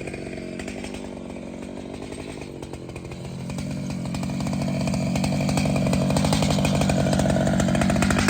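Large two-stroke chainsaw running, growing louder about three and a half seconds in as the engine speeds up and holds there.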